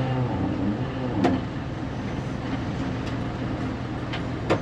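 Fermec TLK760 backhoe's diesel engine running under load while its loader bucket tamps down a heaped dirt load in a dump truck bed, with two sharp knocks, one about a second in and a louder one near the end.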